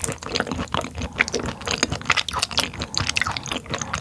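Close-miked wet chewing of raw tuna sashimi: soft, squishy mouth sounds with a fast, irregular run of smacks and clicks.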